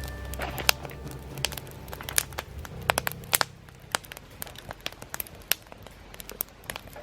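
Wood fire crackling, with sharp, irregular pops and snaps from burning firewood.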